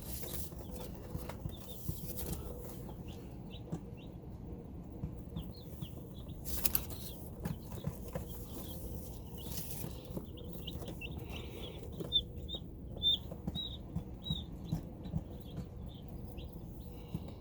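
Day-old Cornish Cross meat chicks peeping: short high cheeps repeated over and over, thickest in the second half. Bouts of rustling and scuffling come through several times, with a steady low background noise underneath.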